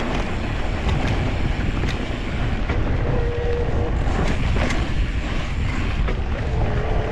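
Wind buffeting the microphone over the rumble of mountain bike tyres rolling on dirt and rock, with scattered sharp clicks and rattles from the bike. A faint steady whine comes in a few seconds in and again near the end.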